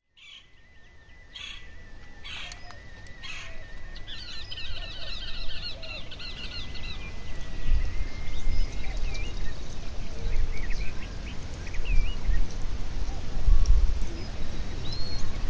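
Bird calls in a natural ambience: three short whooshes in the first few seconds, then a rapid chirping trill, then scattered short whistling calls. Under them a deep rumble grows louder from about halfway through.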